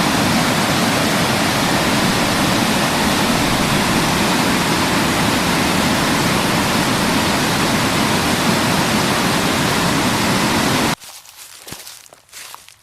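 Small waterfall's water rushing, a steady loud roar of falling water. It cuts off suddenly about eleven seconds in, leaving faint rustling and a few small clicks.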